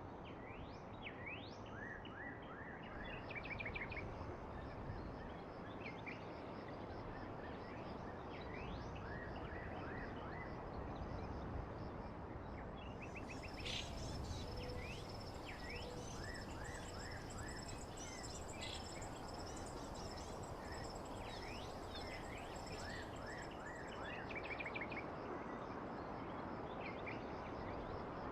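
Songbirds chirping and trilling, many short quick calls over a steady background hiss of outdoor ambience. About halfway through a thin, high continuous tone joins for some ten seconds, then stops.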